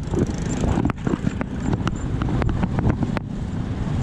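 Road traffic noise: a steady rumble of vehicles running, with a few brief clicks and knocks.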